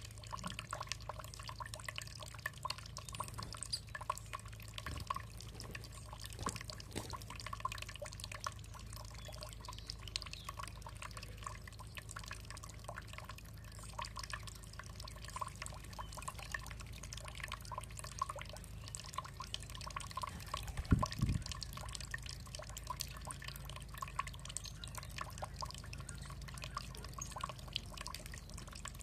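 Water dripping and trickling: a steady patter of many small drips over a low steady hum, with one heavier low thump about two-thirds of the way through.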